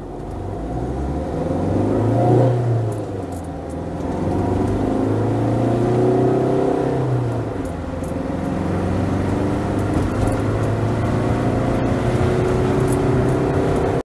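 Fiat Ducato's 2.3 Multijet 130 hp turbodiesel accelerating hard with the van loaded to about 3,100 kg. The revs rise, then dip as the ComfortMatic automated manual gearbox changes up, about two and a half seconds in and again about seven and a half seconds in, then climb steadily again.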